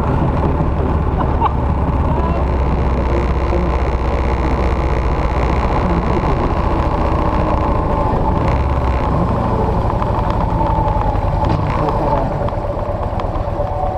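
Victory motorcycle's V-twin engine running steadily while riding.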